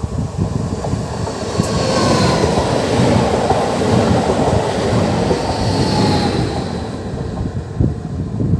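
ED78 electric multiple unit passing close by, its wheels running loud on the rails with a steady rumble and a few clattering knocks.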